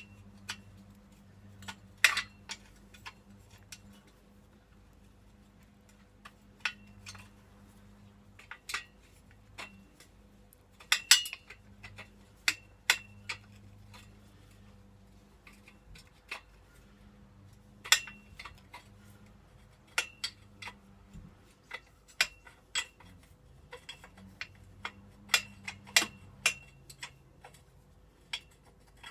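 Metal hand tools clinking and clicking against the motorcycle's exhaust fittings at irregular intervals while the exhaust is unbolted. Each click is sharp with a brief metallic ring, over a faint steady low hum.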